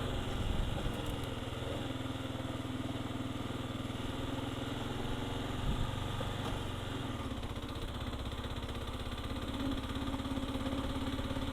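A Kawasaki KLR650's single-cylinder four-stroke engine running at low, steady revs on an off-road track. Its note drops about seven seconds in.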